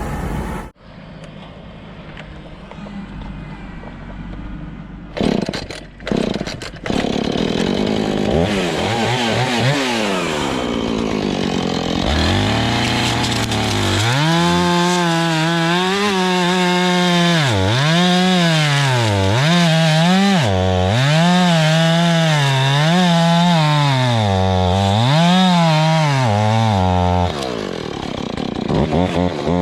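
Chainsaw running: revved up about halfway in, then held at high speed with its pitch dipping and recovering over and over while it bucks a hardwood log.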